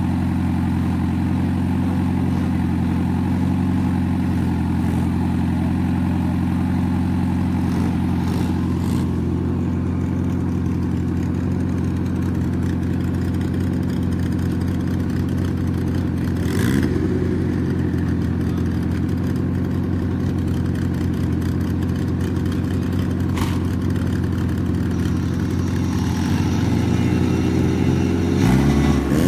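Honda Civic EG hatchback drag car's engine idling steadily, with one short rev blip a little past halfway. Near the end the revs climb and the engine gets louder as the car pulls away to warm its slicks.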